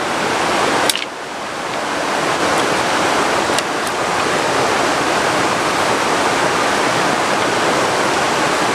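Heavy rain pouring down in a steady, dense rush, with one short knock about a second in.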